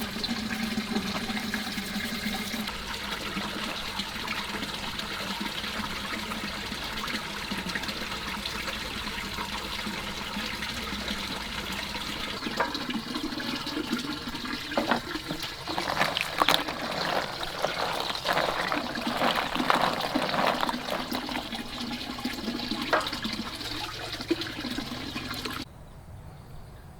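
Water running steadily, with splashing and sharp knocks in the water through the middle. It cuts off abruptly shortly before the end.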